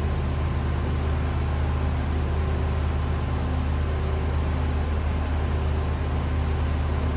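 Fanco Windward 452LA hugger ceiling fan's spinner motor running on low speed: a steady low hum over an even airy noise.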